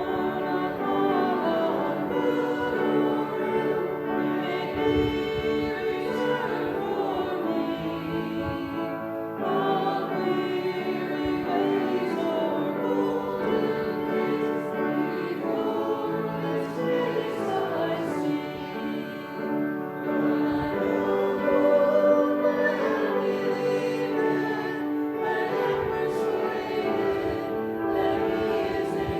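A congregation singing a hymn together in sustained phrases with short breaths between lines.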